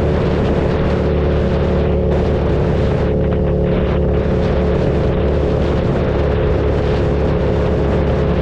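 KTM 1290 Super Duke's V-twin engine running at steady revs, its pitch holding level throughout.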